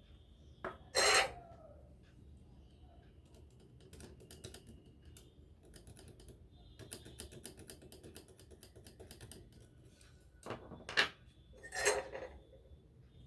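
Small hard parts and tools being handled: scattered light clicks and taps, with a few louder knocks about a second in and again near the end.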